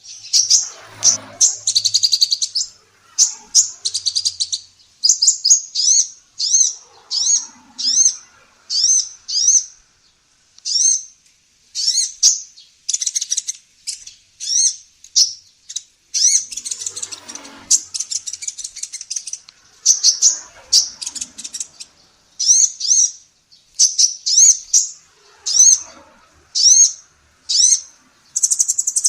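Female kolibri ninja sunbird singing: long runs of short, high, sharp chirps in quick succession, broken by brief pauses.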